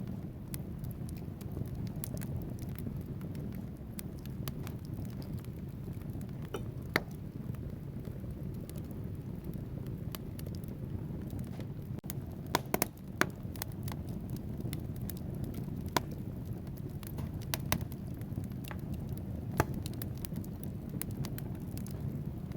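Wood fire burning in a fireplace: a steady low rumble of flames with frequent sharp crackles and pops from the burning logs, and a few louder snaps, including a small cluster about halfway through.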